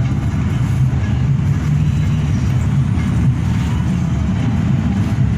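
Hino RK8 bus running at speed, heard from inside the cabin: a steady low engine drone mixed with road and tyre noise.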